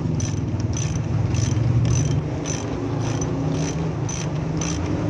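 Steady low hum with a regular metallic tick a little over twice a second, while the spindle nut on a Mitsubishi L300 front wheel hub is tightened hard.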